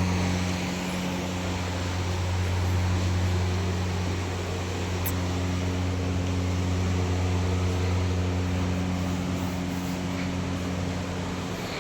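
A steady low mechanical hum from a running motor or engine, with a constant pitch over a noisy rush.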